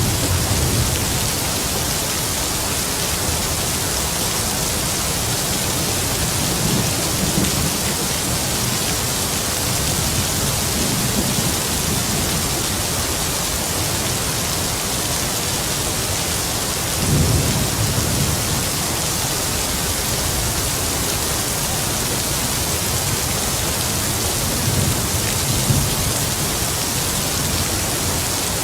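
Heavy rain falling with a steady hiss, with several brief low rumbles of distant thunder, the strongest about two-thirds of the way through.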